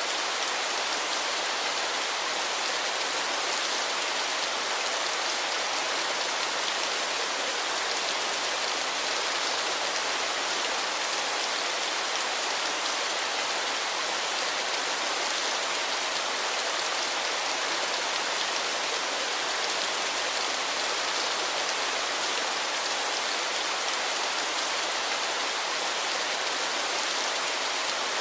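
Waterfall: a steady rush of falling water, an even hiss with little low rumble.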